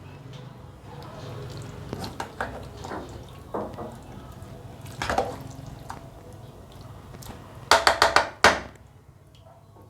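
Eating sounds: a spoon tapping and scraping a bowl, with small liquid sips of banana porridge. About five sharp clinks come in quick succession near the end.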